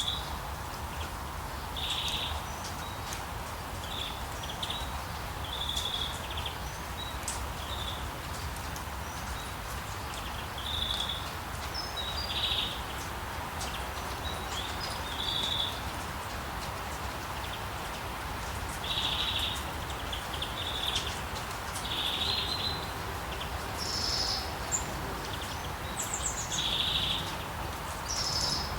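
Steady hiss of rain falling on forest foliage, with a low rumble underneath, and short high bird calls repeating every second or two over it; some higher, thinner chirps join near the end.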